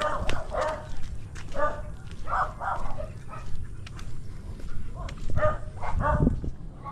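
A dog barking: short barks at irregular intervals, several in close pairs, over a low steady rumble.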